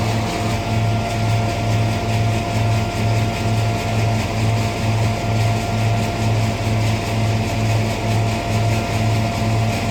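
Hazelnut threshing machine (patoz) running steadily under power, a continuous mechanical hum with a low rhythmic throb about twice a second.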